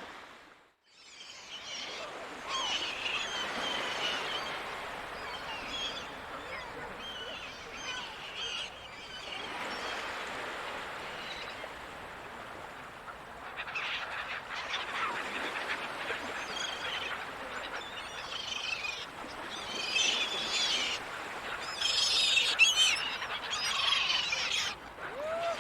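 Gulls calling again and again over the even hiss of ocean surf. The calls come thickest and loudest near the end. There is a brief dip almost to silence about half a second in.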